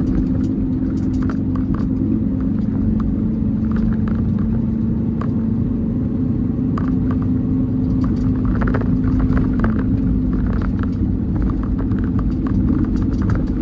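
Peterbilt 389 semi truck cruising on the highway: a steady low engine drone with road rumble underneath.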